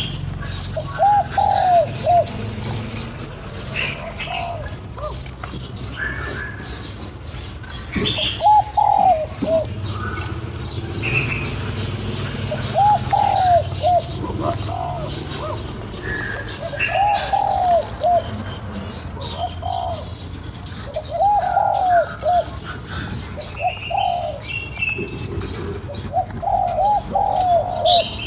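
Spotted doves cooing: short phrases of a few rounded notes, repeated every few seconds. Thin chirps from smaller birds sound higher up between the phrases.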